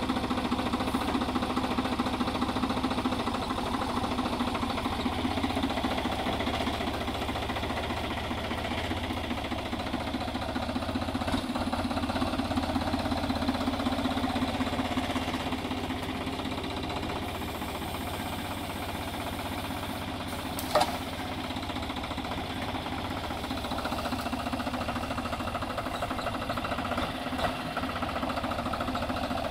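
An engine running steadily at an even speed, with one sharp click about twenty seconds in.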